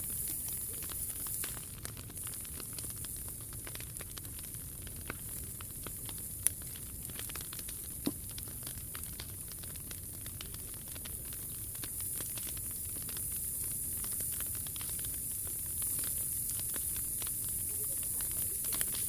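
Wood fire burning and crackling steadily, with many small snaps over a soft hiss and two sharp, louder pops a little before halfway.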